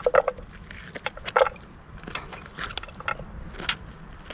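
A tin can of porridge being opened with a knife: a few sharp, irregular metallic clicks and scrapes.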